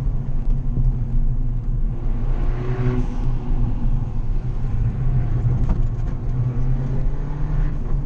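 Fiat 500 Abarth rally car's engine running steadily through a corner, heard from inside the cabin along with road noise.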